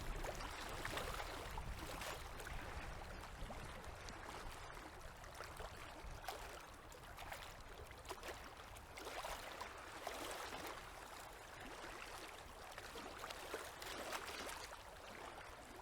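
Small river waves lapping against the bank, a steady watery wash that swells irregularly every second or two with little splashing ticks.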